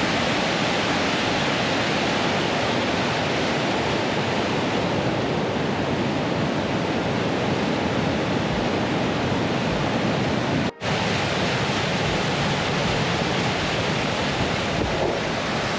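Waterfall: powerful rushing water, a steady, unbroken roar with one very brief break about eleven seconds in.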